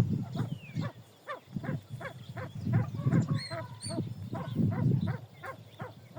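Pheasants calling: a run of short, rough clucks about three to four a second, with thin high bird chirps about halfway through.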